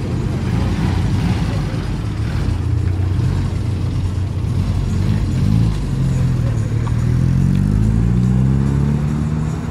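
Classic Mini's A-series four-cylinder engine running as the car pulls away at low speed; a little past halfway the engine note dips briefly, then climbs steadily in pitch as it accelerates off.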